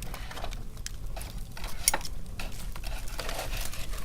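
Wood bonfire crackling: irregular snaps and pops, one sharp pop about two seconds in, over a low steady rumble.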